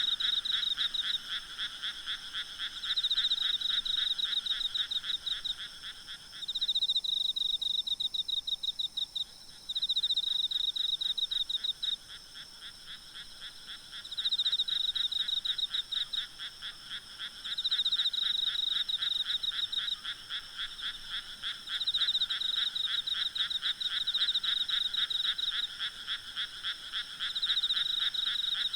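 A night chorus of frogs, rapid pulsed croaking in bouts of a few seconds, with a lower-pitched caller that drops out about a quarter of the way in. Insects keep up a faint, steady high trill underneath.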